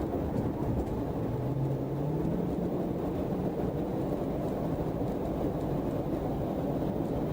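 Steady road and engine noise of a patrol car driving at highway speed, with the engine note rising briefly about two seconds in.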